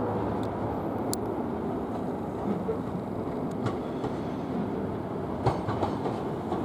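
Southern Class 455 electric multiple unit moving slowly along the track, a steady rumble with a few sharp clicks of wheels over rail joints, several close together near the end.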